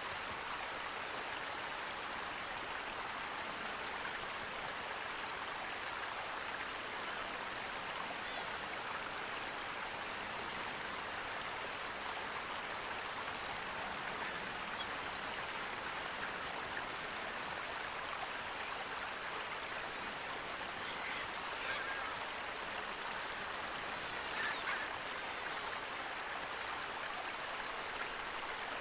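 Steady rushing of flowing water, with two short animal calls, likely from a bird, rising above it about three-quarters of the way through.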